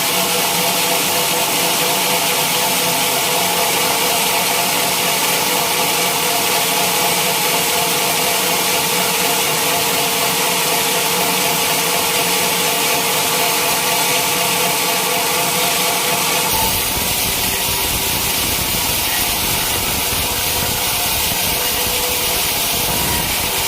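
Sawmill saw running steadily through a teak log: a loud, even machine noise with a high hiss and a steady hum. About 16 seconds in the sound shifts, with more low rumble and a weaker hum.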